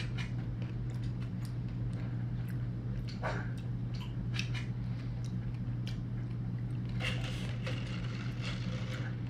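A person chewing and biting waffle fries and a chicken sandwich, with scattered small wet mouth clicks, over a steady low hum.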